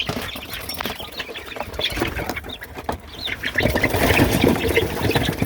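Flock of chickens in a coop: scattered short clucks and chirps over small scratching clicks, with a louder flurry of rustling wing flapping past the middle that lasts almost two seconds.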